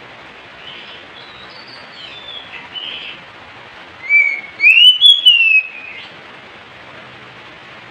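Oriental magpie-robin (kacer) singing: a few soft whistled notes, then about four seconds in a loud run of rising and falling whistles lasting some two seconds, over a steady hiss.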